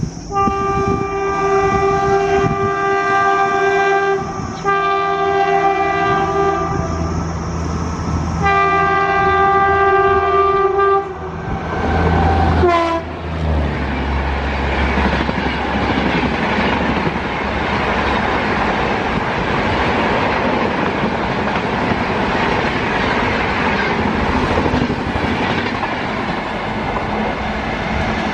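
High-speed LHB superfast train approaching and passing: the locomotive horn sounds three long blasts, and its pitch drops sharply as the engine goes by. Then the coaches rush past with a steady rumble and wheel clatter on the rails.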